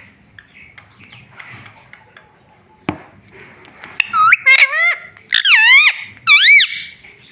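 A pet ring-necked parakeet gives a run of loud, shrill calls starting about four seconds in, four swooping bursts whose pitch dips and rises. A single sharp click comes just before them.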